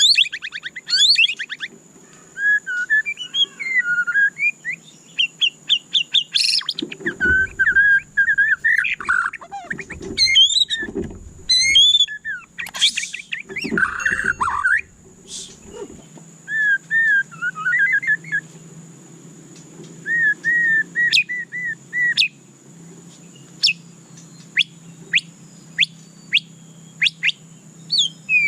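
White-rumped shama singing a varied song of whistled phrases, rapid trills and a few harsh notes. In the last few seconds it switches to a string of short, sharp upward-flicking chirps, about one or two a second.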